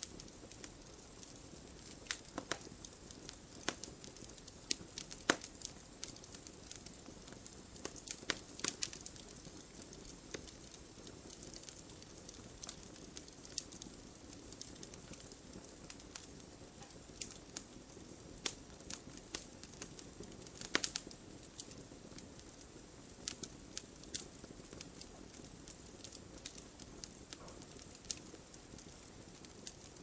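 Wood fire crackling: a steady soft hiss broken by frequent small irregular snaps, with a few louder pops, most clearly about five seconds in, around eight to nine seconds and about twenty-one seconds in.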